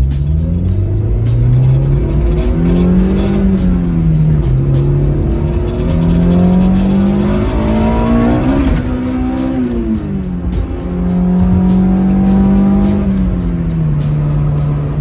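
Honda Civic Type R EK9's 1.6-litre VTEC four-cylinder heard from inside the cabin as the car accelerates. The engine note climbs, then drops back at each gear change, several times over, and settles to a steady cruise near the end.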